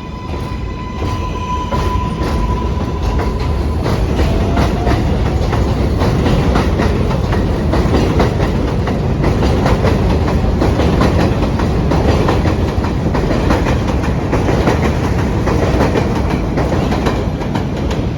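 R188 subway train running through the station, its wheels clacking steadily over rail joints. A steady electric motor whine sounds over the first few seconds, then fades under the wheel noise.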